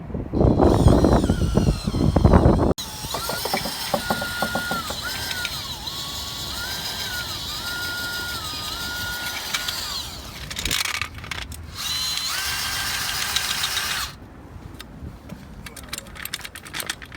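A power drill's motor whining in spurts, its pitch stepping up and down as the trigger is squeezed and eased, from about three to fourteen seconds in. A loud low rumble fills the first couple of seconds before it.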